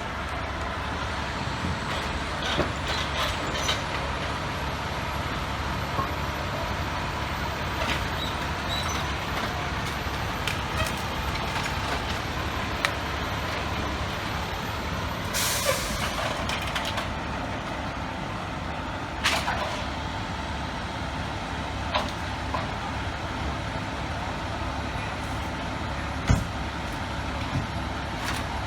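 Large truck's diesel engine idling with a steady low rumble. About fifteen seconds in comes a loud air-brake hiss lasting about a second, and a few sharp knocks are scattered through.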